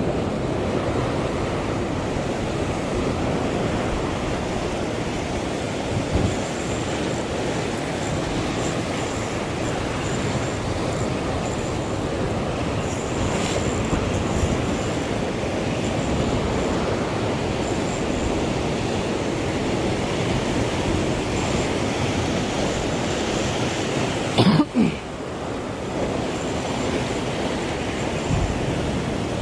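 Steady rushing noise of sea surf and wind, with one short sharp sound about 24 seconds in.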